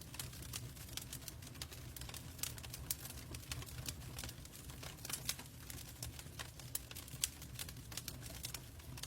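Log fire burning in a fireplace: wood crackling with irregular sharp pops and snaps over a low steady rumble.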